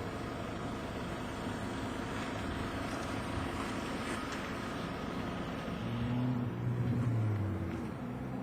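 A motor vehicle's engine running under a steady rushing noise, its low drone swelling louder about six seconds in and fading again near the end.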